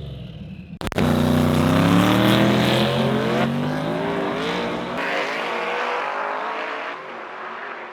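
Race car engines at full throttle pulling away down a drag strip, the engine note falling in pitch and fading. There is an abrupt break about a second in, where a new pass begins.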